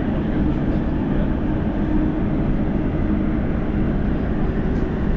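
Elizabeth line Class 345 train running at speed in the tunnel, heard from inside the carriage: a steady, loud rumble and rush of wheels and air with a faint steady hum.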